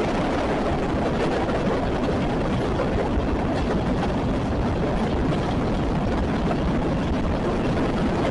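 CSX freight train rolling past, a steady rumble of wheels on rails.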